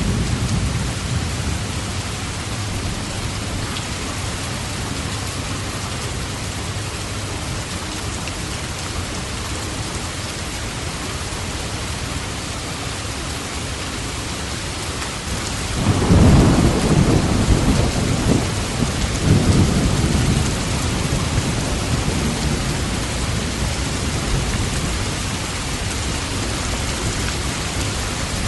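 Steady heavy rain, with a long roll of thunder rumbling in a little past halfway and dying away over several seconds.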